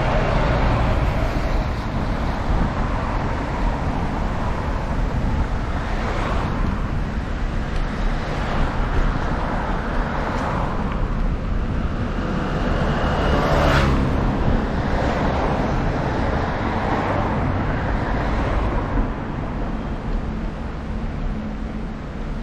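Wind rushing over the microphone during a bike ride along a road, with several cars passing, each one swelling up and fading over a couple of seconds.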